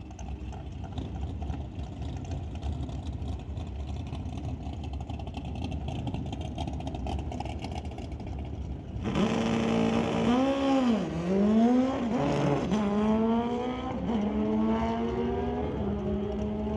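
Drag-racing motorcycles idling at the start line with a low rumble, then launching about nine seconds in. The engines hold a steady high rev, then climb in pitch and drop back several times as they shift up through the gears down the strip.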